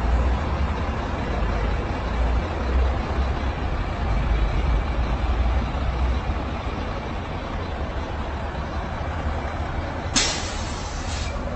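Steady road and engine rumble of a vehicle on the move, picked up by a dashcam. About ten seconds in comes a sudden sharp hiss lasting about a second, with a shorter, fainter one just after.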